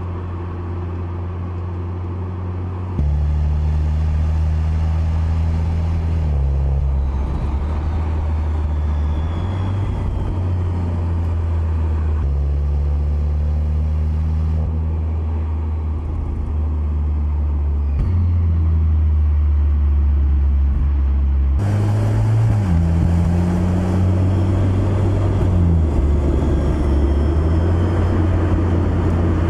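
Mercedes-AMG C63 S E Performance's turbocharged four-cylinder engine and exhaust running loud. The engine note holds steady low pitches that change in abrupt steps every few seconds, and it gets louder about 3 seconds in.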